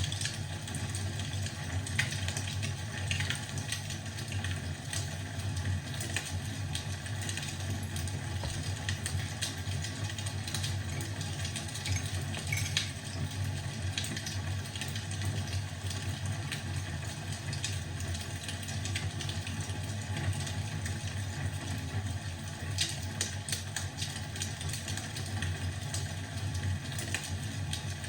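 Wood fire crackling, with scattered small pops and ticks over a steady low rumble.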